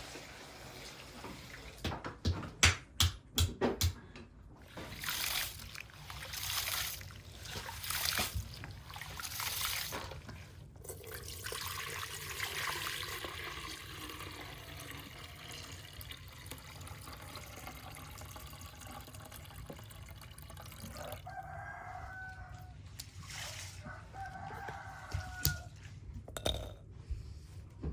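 Chickens in a farmyard, with a rooster crowing twice in short calls near the end. Before that come scattered knocks and a long stretch of hissing noise.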